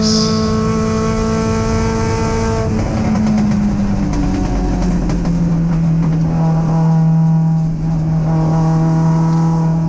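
Triumph TR7 race car's 16-valve Sprint four-cylinder engine running hard, heard from inside the cabin. About three seconds in the revs drop, and it then runs steadily at lower revs.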